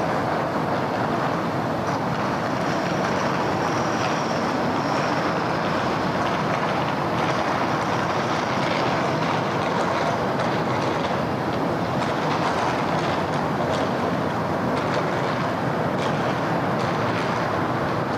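Steady city traffic noise, a continuous rumble of passing vehicles, with a faint high whine a few seconds in and light scattered clicks later on.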